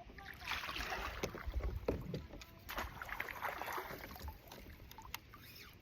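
Water splashing in bursts beside a kayak, with a few sharp knocks, as a hooked bass is brought in.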